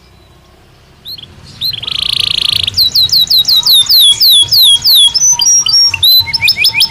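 Belgian canary singing: after about a second of pause it gives a few chirps, a short buzzing roll, then a quick run of falling whistled notes, a brief held note and a fast series of rising notes near the end.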